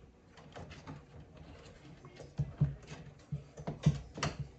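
Plastic electronics cover on a mini-split air handler being slid along its rail and pressed to snap into place, giving a run of irregular clicks and knocks that grow louder and closer together about halfway through, the sharpest near the end.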